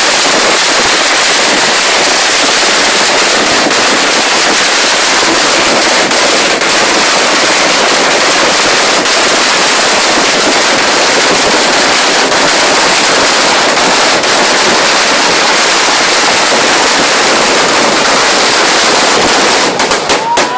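A long string of Chinese firecrackers going off in a dense, unbroken crackle of rapid bangs that thins to a few separate bangs near the end.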